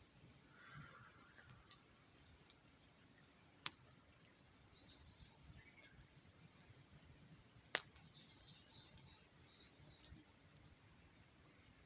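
Wood campfire crackling faintly, with scattered small clicks and two sharp pops, one about a third of the way in and one about two-thirds in.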